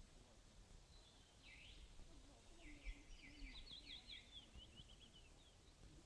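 Faint songbird singing in quiet woodland: one swooping note about a second and a half in, then a quick run of high notes about a second later.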